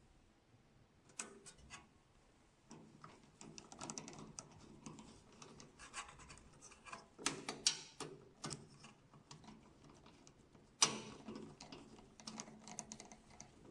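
Hands working the parts of a printer's ink pump assembly back into place: a scattered run of small clicks, taps and scraping of plastic and metal, with one sharper knock about eleven seconds in.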